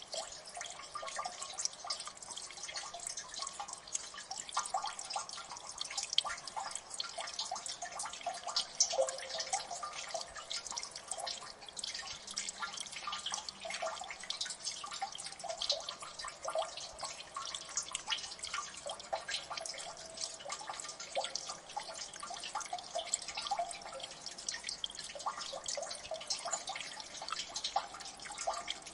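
Water dripping in a gully: many small, irregular drips and plinks falling into water, overlapping continuously at a moderate level.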